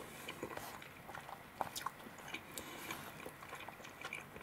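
A person chewing a mouthful of curry and rice with soft mouth sounds, and a few light clicks as a metal spoon scoops in the plastic bowl.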